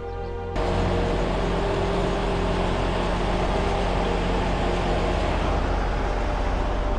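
Background music cuts off about half a second in. A semi truck's diesel engine then runs steadily under loud road and cab noise, as heard from inside the truck's cab.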